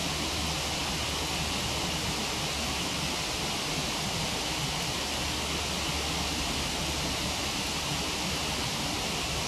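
Waterfall rushing steadily, a constant even noise with no breaks.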